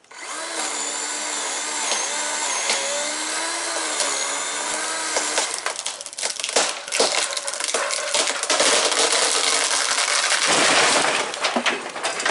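Chainsaw starting suddenly and running with a wavering engine note, then cutting into a large tree limb with a rough, ragged sound from about five seconds in. Near the end a heavier, deeper noise comes as the cut limb cracks and breaks off its hinge.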